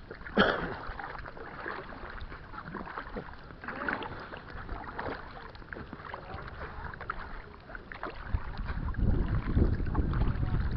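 Kayak paddle strokes dipping and splashing in the water, with a sharp splash about half a second in. Wind buffets the microphone with a low rumble over the last couple of seconds.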